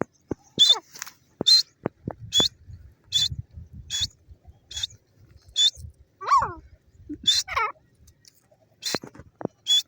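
Grey francolin calling: a run of short, sharp high notes repeated about once a second, with two harsher falling calls in the middle.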